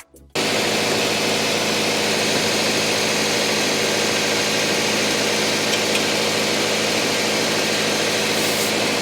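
Subaru Forester XT's turbocharged 2.0-litre flat-four engine idling steadily under a broad hiss. The sound starts abruptly just after the start and then holds level.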